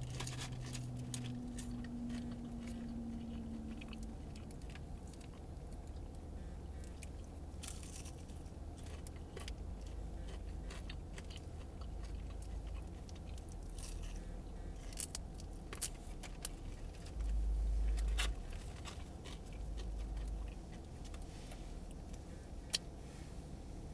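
A person chewing a bite of battered fried fish, with a few faint crunches and clicks, over a steady low rumble inside a car. A louder low rumble swells for about a second roughly two thirds of the way through.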